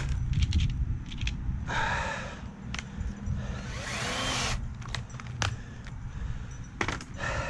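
Working sounds of assembling a 2x4 frame with screws: scattered sharp clicks and knocks of wood and hardware over a low rumble, with a short burst of drill noise about four seconds in.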